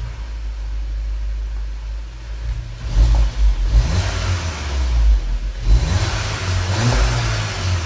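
VW Golf 7 GTI Performance's turbocharged 2.0-litre four-cylinder settling into a steady idle just after a start. About three seconds in, it is blipped through several short revs heard from the exhaust.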